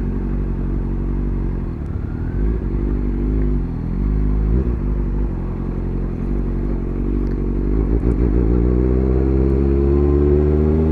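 Motorcycle engine running at low speed, its pitch dipping and rising with the throttle, then climbing steadily near the end as it picks up revs.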